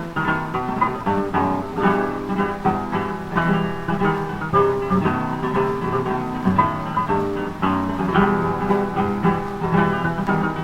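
Two acoustic guitars playing the instrumental introduction of a cueca, in quick plucked and strummed rhythm, from an early 78 rpm record with a thin, dull sound that lacks any high treble.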